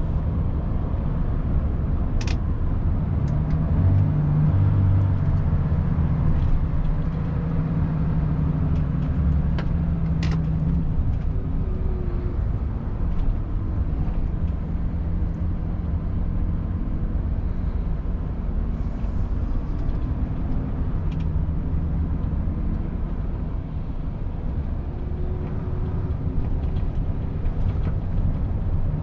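Volvo FH 500 truck's 13-litre six-cylinder diesel engine running while driving, with road and tyre noise, heard from inside the cab. The engine drone grows stronger from about three seconds in and eases after about eleven seconds, and a couple of sharp clicks are heard.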